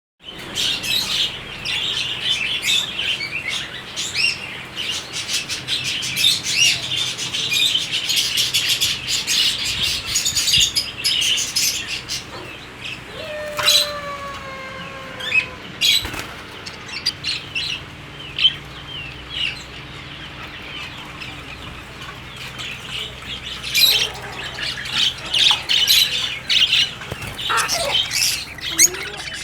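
Many caged birds chirping at once in a dense, continuous chorus of short high chirps, with one longer falling call about halfway through.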